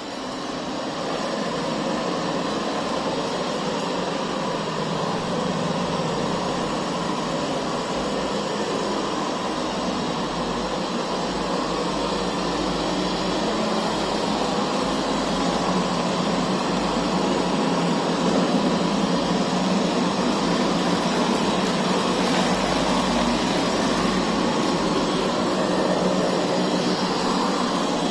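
Puppyoo R6 robot vacuum running: a steady machine noise that fades in over the first second and then holds even.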